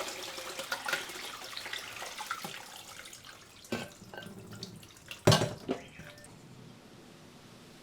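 Water splashing and dripping at a sink, fading over the first few seconds, then a few sharp knocks, the loudest a little past five seconds in.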